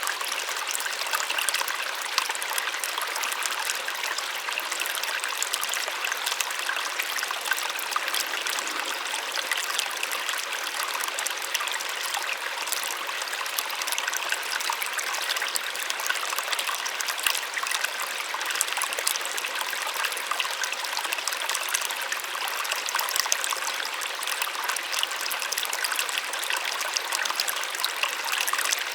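Small waterfall splashing and trickling, a steady hiss of falling water without bass rumble.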